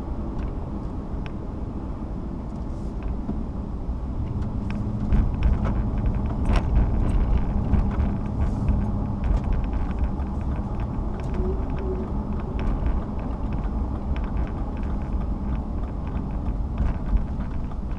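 A car being driven, heard from inside: a steady low rumble of road and engine noise that gets louder about five seconds in, with a few small clicks and knocks.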